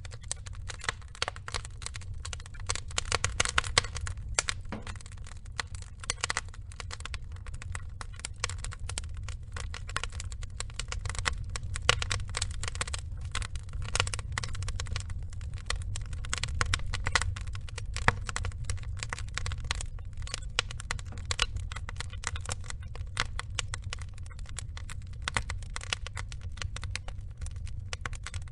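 Wood fire crackling and popping steadily, with dense irregular snaps over a low steady rumble of burning logs.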